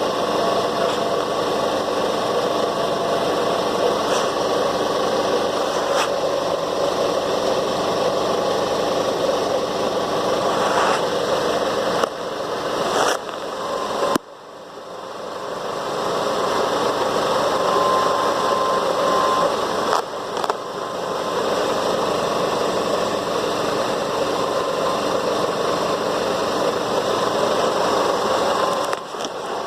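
Vehicle engine running steadily, with a few sharp knocks; the sound dips suddenly about halfway through and then builds back up.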